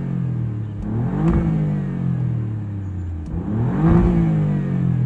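Alfa Romeo Giulia Quadrifoglio's twin-turbo 2.9-litre V6 in race mode, revved twice, about a second in and again near the end. Each rev rises quickly and falls back to idle.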